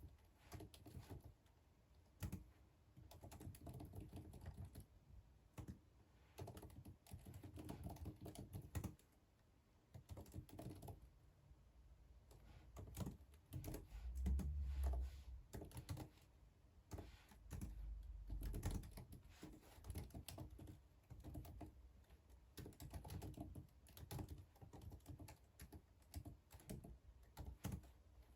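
Typing on a computer keyboard in bursts of quick key clicks with short pauses between them. A low thump about halfway through is the loudest moment, with a softer one a few seconds later.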